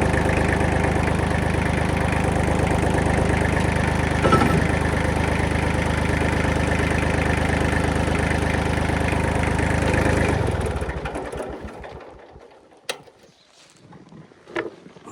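Kubota diesel engine idling steadily, then shut off about ten seconds in and running down to a stop. A few sharp clicks follow in the quiet.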